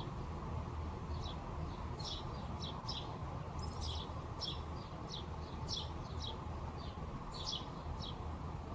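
Small songbirds chirping: many short, high chirps, irregular and about two or three a second, over a steady low background noise.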